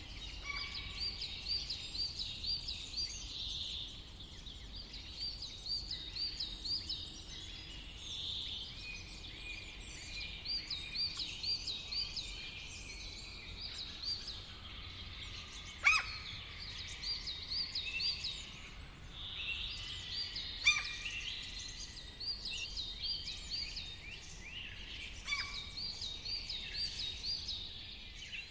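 Several forest songbirds singing, one repeating a quick phrase of high looping notes every couple of seconds, with two sharp louder calls about midway and later.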